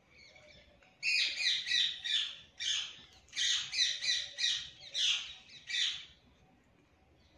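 A bird calling: a run of high, rapid chirps in several bursts, starting about a second in and stopping about a second before the end.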